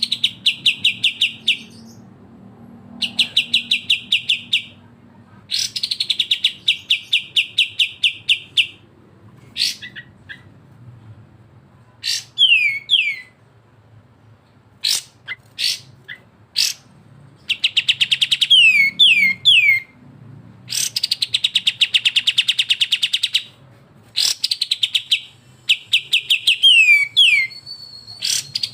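Songbird song from a masteran recording of kapas tembak and cucak jenggot (bulbuls). The birds give repeated bouts of rapid trilled notes, each a couple of seconds long, broken by a few quick downward-sliding whistles and single sharp notes.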